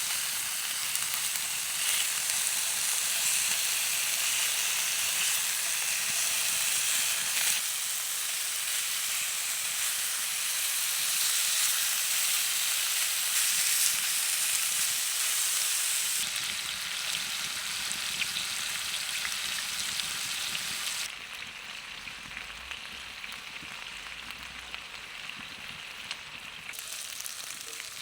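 Chicken wings sizzling over a campfire, a steady frying hiss that drops to a quieter sizzle about three quarters of the way through.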